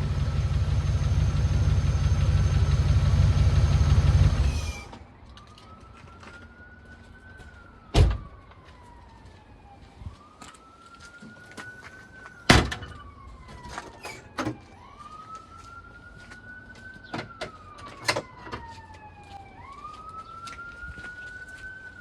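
Range Rover P38's V8 engine running loudly, stopping abruptly about five seconds in. Then a siren wails slowly up and down, one cycle every four to five seconds, with a few sharp knocks, two of them loud.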